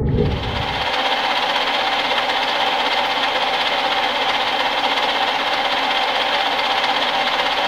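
Meuser M0 metal lathe running under power: a steady mechanical whir with a few steady tones in it.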